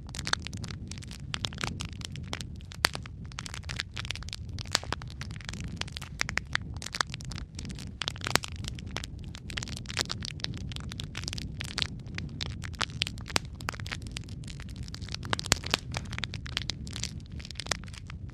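Wood fire in a fireplace crackling: many sharp, irregular pops and snaps over a low, steady rumble of the flames.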